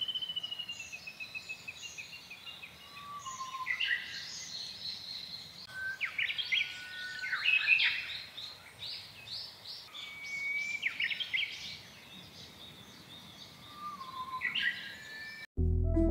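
Several songbirds singing and calling: clear whistled notes, some held and some sliding, between quick chirps, with a falling run of notes at the start. Near the end the birdsong cuts off abruptly and soft ambient music begins.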